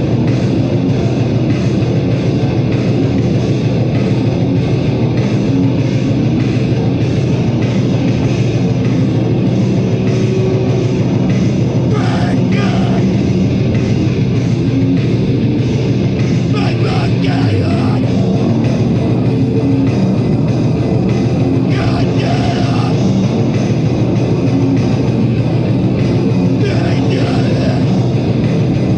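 Live heavy metal band playing loud and dense: distorted guitars, bass and drums, with short vocal bursts about every five seconds.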